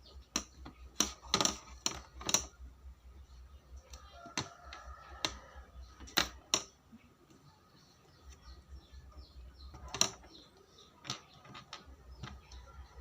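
Small gears and parts of a homemade DC-motor gearbox clicking and tapping as they are fitted together by hand. The sharp clicks come at irregular intervals, several close together in the first few seconds and then more sparsely.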